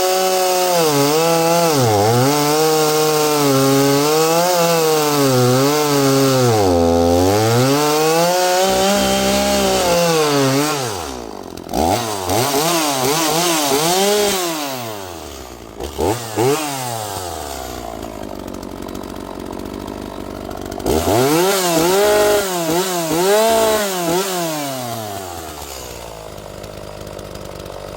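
Two-stroke chainsaw cutting through a log at full throttle, its pitch wavering and dipping with the load for about ten seconds. It is then revved up and down several times, drops to idle, is revved a few more times, and settles back to idle near the end.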